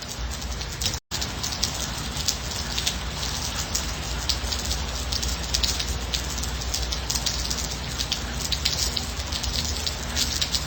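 Steady gentle rain, a continuous hiss sprinkled with many separate drop hits. The sound cuts out for an instant about a second in.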